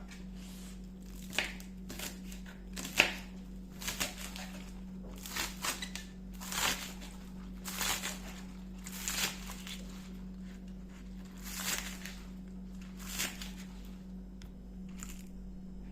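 Kitchen food-preparation handling: a series of short scraping, rustling strokes about once a second, over a steady low electrical hum.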